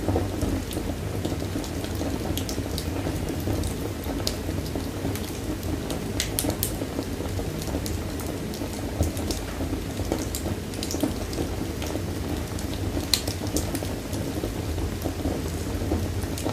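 Wood fire burning in a fireplace: a steady low flutter of flames with scattered sharp crackles and pops.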